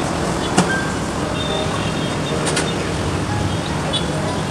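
Steady road-traffic noise of a busy street, with a sharp tick about half a second in and another around two and a half seconds.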